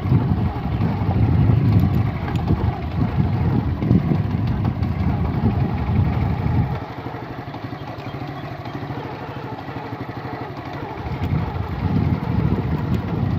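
Tractor engine running with an even firing rhythm, working harder for the first several seconds, then easing back to a steady lower level before picking up again near the end.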